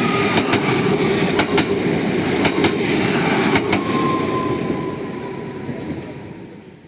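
A train rolling past on steel rails, its wheels clicking over the rail joints in pairs about once a second over a dense rumble, with a faint thin squeal in the middle. The sound fades away near the end.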